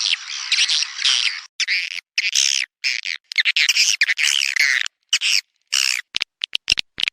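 Swiftlet call recording of the kind played to lure swiftlets into a nesting house: dense twittering chirps in short phrases with brief gaps between them. About six seconds in, it gives way to a rapid series of short sharp clicks.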